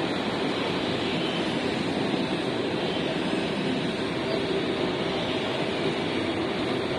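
Freight train of enclosed autorack car carriers rolling past, a steady rumble of steel wheels on the rails.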